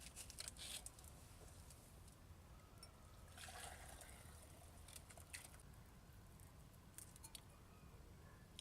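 Near silence, broken by a few faint, short clicks and rustles: a cluster at the start, a longer patch about three and a half seconds in, and single ticks around five and seven seconds in.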